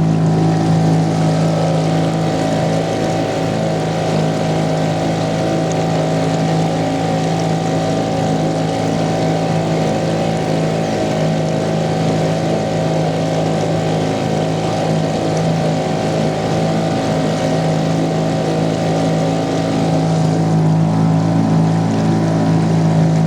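Fisher 2.5 hp outboard motor running at a steady pitch under way, pushing a small boat, with water and wind noise over it.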